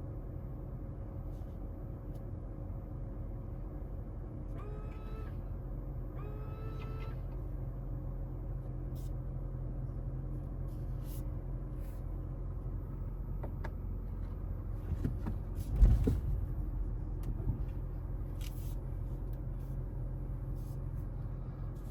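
Steady low hum inside a car cabin, with two short rising electronic chimes about five and six and a half seconds in, scattered clicks of controls, and a single thump about sixteen seconds in.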